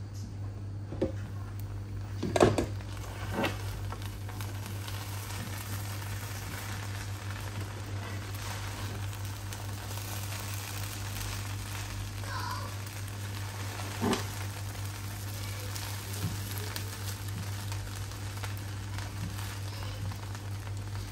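Food frying in a pan with a steady sizzle, over a low steady hum. A few sharp knocks of a utensil against the pan, the loudest about two and a half seconds in and another near fourteen seconds.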